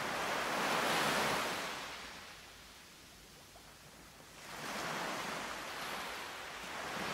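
Ocean surf: waves washing in and drawing back in slow swells, the first peaking about a second in and the next rising at about four and a half seconds.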